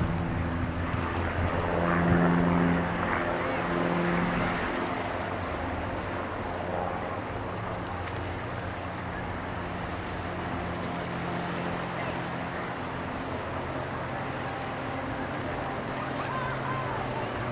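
Steady low engine drone, with wind noise on the microphone.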